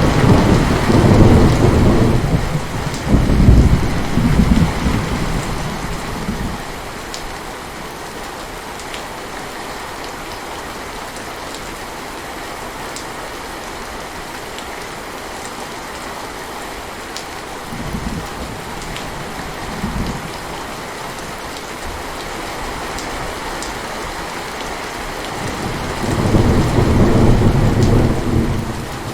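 Steady heavy rain with rolling thunder: long low rumbles over the first few seconds and again near the end, and two short low thunder bursts in between.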